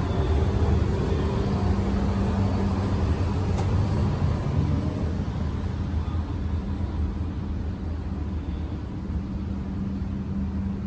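Shinkansen train running with a steady low rumble and hum, slowly growing quieter.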